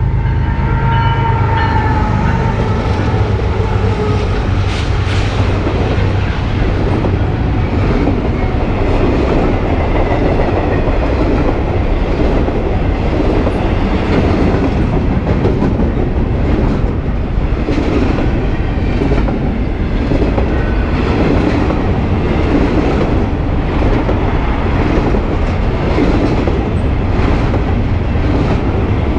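Train rolling past close by: a loud steady rumble with a long run of wheel clacks over the rail joints.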